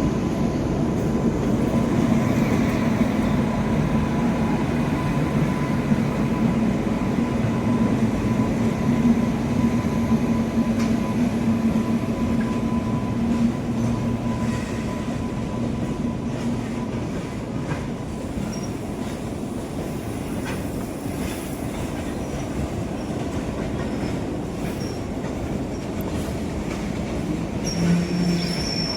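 Freight train of BCNA covered wagons behind twin WAG9HC electric locomotives running past, with a steady rumble of wheels on rail. A low hum and a faint higher tone fade out about halfway through, leaving the running noise of the wagons.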